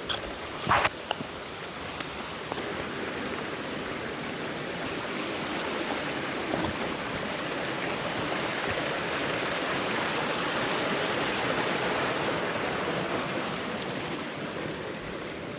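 Creek flowing: a steady rush of water that swells louder midway and eases off again near the end. A brief sharp knock comes about a second in.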